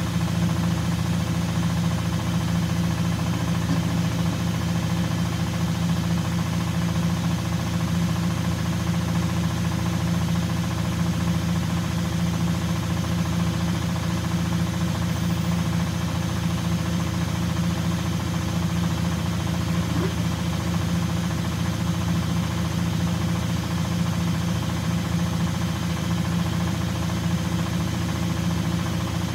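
Front-loading washing machine running with a steady, unbroken motor hum.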